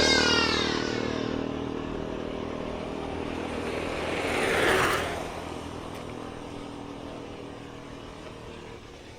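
A motor vehicle passes close, its engine pitch dropping as it moves off, and fades away. About halfway through another vehicle swells up and passes with a rush of road noise, then the traffic sound thins out.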